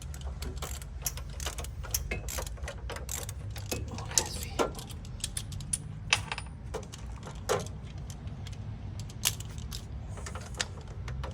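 Hand tools working on metal engine-bay parts: irregular clicks and clinks of a wrench, bolts and brackets, over a steady low hum.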